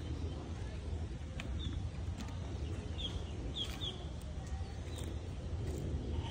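A bird chirping in short high calls, three close together about three to four seconds in, over a steady low rumble.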